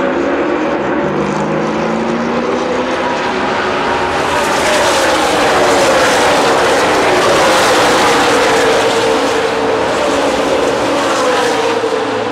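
NASCAR Nationwide Series stock cars' V8 engines racing past at speed. The sound swells about four seconds in, and the engine pitch drops as the pack goes by.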